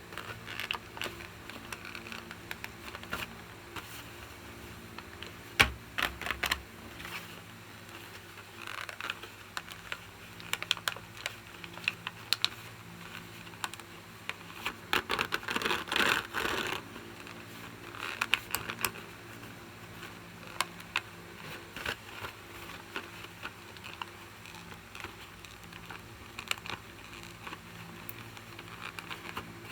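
Close-up handling of plastic action figures and their packaging: scattered light taps and clicks of plastic, with one sharper click about a fifth of the way in and a denser stretch of scratching and rustling around the middle lasting about two seconds.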